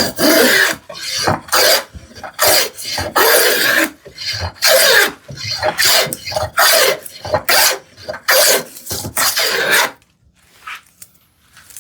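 Hand plane taking quick, repeated strokes along a narrow wooden board, about two strokes a second, its blade cutting with a rasping sound. The strokes stop about ten seconds in.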